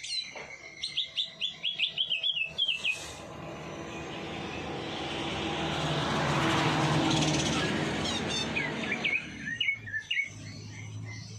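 Songbird chirping in quick runs of short, sharp notes. In the middle the chirping breaks off while a rushing noise swells and fades, then the chirping resumes near the end.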